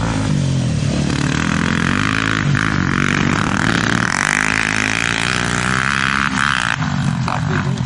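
Motorcycle engine running under way, its pitch rising and falling as the throttle changes, with a steady rush of wind and road noise through the middle stretch.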